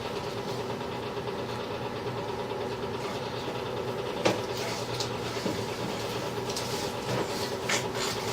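Sewer inspection camera rig running with a steady mechanical hum as the camera is brought back through cast iron drain pipe, with a few sharp clicks and knocks of the push cable against the pipe.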